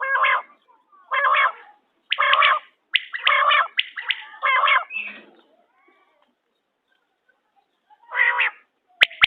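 Quail (bater) calling: a series of short, rasping calls about one a second, a pause of about three seconds, then another call near the end.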